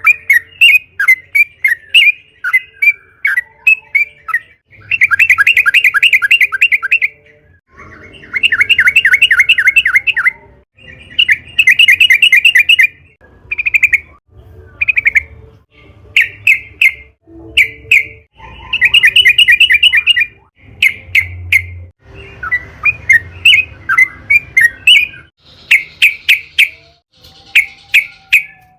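Yellow-vented bulbul (trucukan) calling loudly. Fast chattering phrases of rapidly repeated notes, each about two seconds long, alternate with runs of short separate chirps, all pitched around 2–3 kHz.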